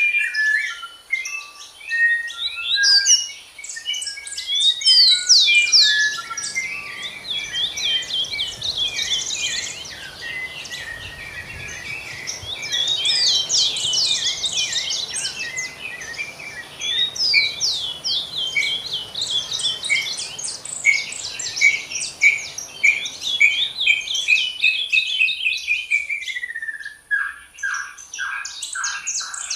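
Several songbirds singing together in a dense, continuous chorus of quick chirps, whistles and trills. Near the end one bird holds a note that slides down into a run of falling notes.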